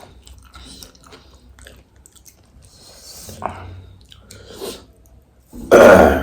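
Close-miked chewing and crunching of pani puri and chatpate, with small bites and mouth noises. Near the end comes one short, much louder burst.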